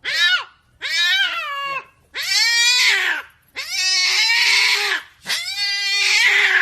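A domestic cat meowing loudly and repeatedly, about five long drawn-out calls that rise and fall in pitch.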